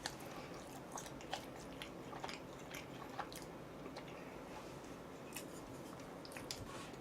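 Close-up chewing and biting of chicken: soft, irregular crunches and wet mouth clicks.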